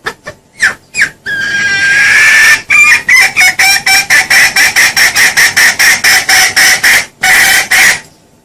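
Junglefowl calling loudly: a few short notes, then a drawn-out call, then a fast even run of clucking notes at about four a second, closing with a longer note near the end.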